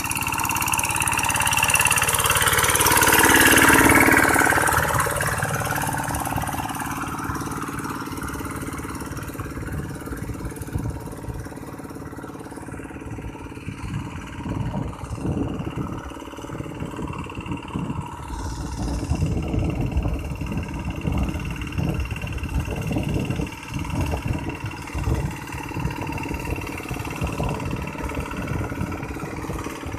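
Paddy-field tractor engine running steadily, swelling louder for a few seconds near the start and then easing back, with irregular knocking and clattering through the second half.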